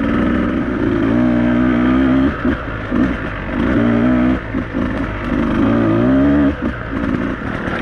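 Beta 200RR two-stroke enduro motorcycle engine being ridden, the revs rising and falling as the throttle is worked, with several brief dips where the throttle is rolled off and back on.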